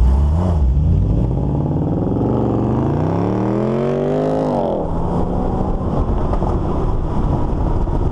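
A car engine and exhaust accelerating hard from a standstill, the note rising for about four seconds, dropping at an upshift about five seconds in, then running steadily.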